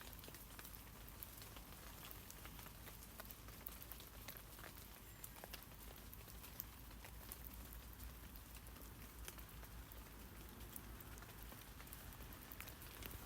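Rain falling on tree leaves: a faint, steady patter of many small drop ticks.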